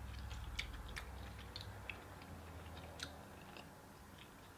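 Faint chewing of lobster meat, with scattered small wet mouth clicks.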